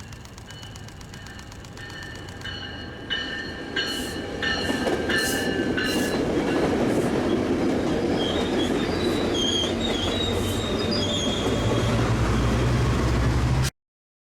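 Metrolink commuter train moving through the station: high wheel squeals on the rails for a few seconds, then a steady loud rumble of the passing train with a low engine drone growing near the end, cut off suddenly.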